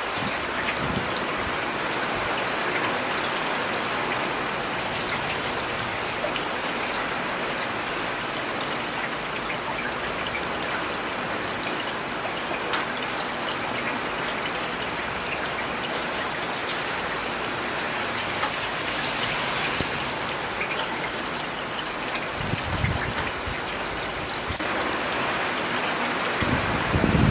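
Steady rain falling, with scattered ticks of individual drops. A brief low rumble comes twice, about 22 seconds in and again near the end.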